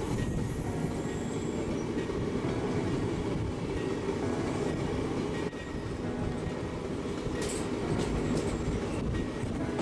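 Passenger train running, heard from on board: a steady low rumble of wheels on the track, with a sharper clack about seven and a half seconds in.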